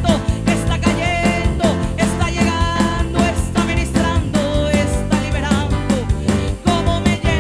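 Upbeat Spanish-language praise music played by a church band, with a fast steady drum beat and a sliding melody line above it.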